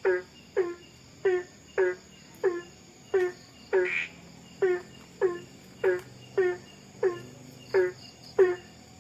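Steady high chirring of crickets and other night insects, with a short call that falls steeply in pitch repeated loudly about every two-thirds of a second by an unseen night animal.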